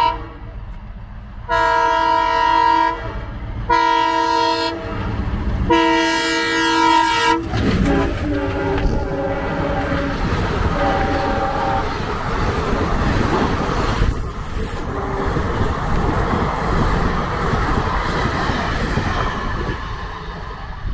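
Express train's locomotive horn sounding three long chord blasts, right after the end of an earlier one. The train then runs through at speed, a loud rumbling roar with wheels clattering over the rail joints, which eases off near the end as the train moves away.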